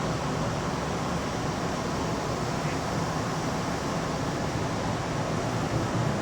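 Steady rumble and hiss inside the front car of a Keihan Electric Railway local train.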